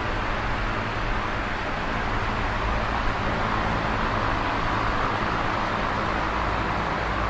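Electric fan running steadily: an even whoosh of air from the blades over a low motor hum.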